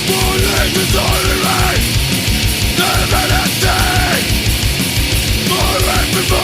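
Swedish crust punk song at full volume: a fast, steady drumbeat under heavily distorted guitars.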